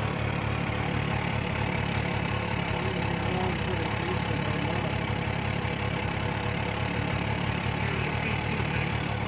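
Small 125cc two-stroke motorcycle engine running steadily at idle. Its owners think the carburettor's idle jet is still partly plugged.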